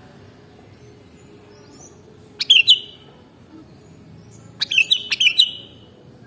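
Sooty-headed bulbul (kutilang) singing two short, loud phrases of quick sharp notes, the second a little longer, about two seconds apart.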